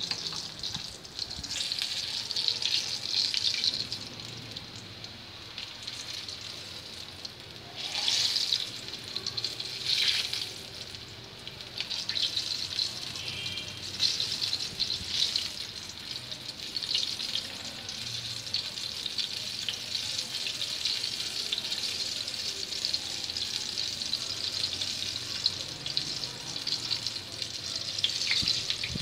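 Batter-coated chicken pieces frying in hot oil in a pan: a steady sizzle that swells louder twice, about eight and ten seconds in.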